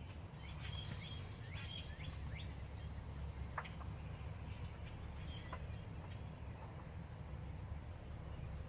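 Birds chirping in short calls, most of them in the first two seconds, over a steady low background rumble.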